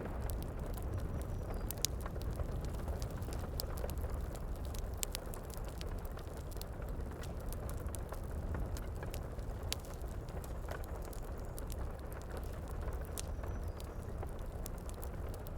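Wood fire crackling with scattered sharp pops over a steady low rush of heavy rain.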